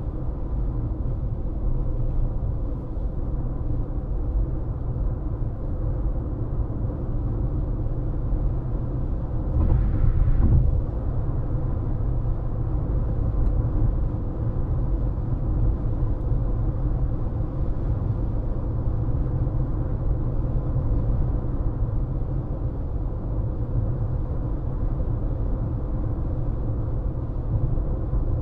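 A car driving, with steady tyre and road rumble and a faint constant hum. About ten seconds in, a louder swell lasts roughly a second.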